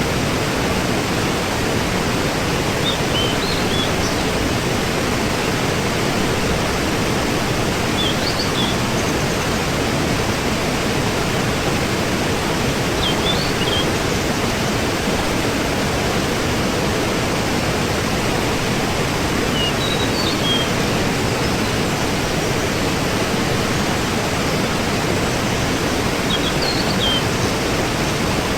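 Waterfall rushing steadily. Short, high chirps, such as a bird's, come through about every five seconds.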